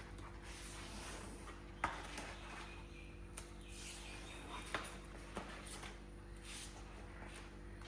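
A few sharp knocks and clicks over a faint steady hum and hiss, the loudest about two seconds in and another just before five seconds.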